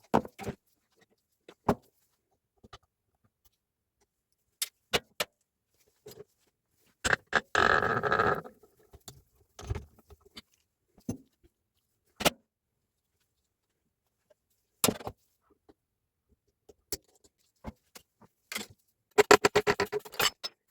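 Scattered clicks and knocks of parts and hand tools being handled during a breaker-hammer repair. There is a short rattling clatter about a third of the way in and a quick run of clicks near the end.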